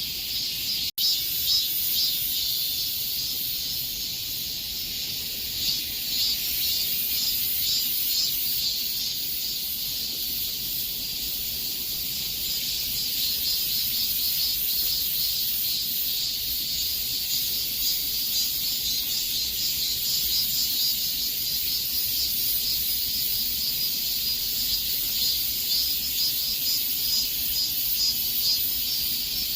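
Cicadas singing in a steady, high, shrill buzzing chorus, with one brief break about a second in.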